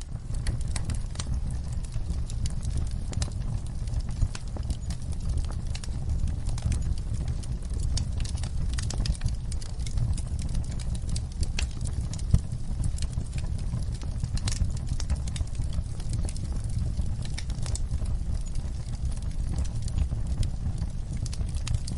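Wood fire burning in a fireplace: a steady low rumble of the flames with many irregular sharp crackles and pops, one louder pop about halfway through.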